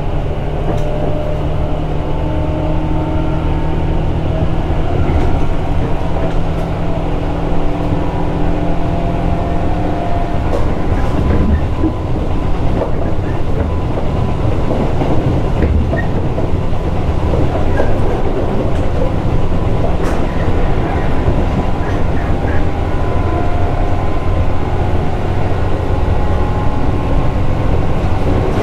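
Tobu 8000 series electric train running along the line, heard from aboard: a steady rumble of wheels on rail under a hum of traction motors whose tones drift slightly in pitch, with scattered clicks as the wheels pass over rail joints.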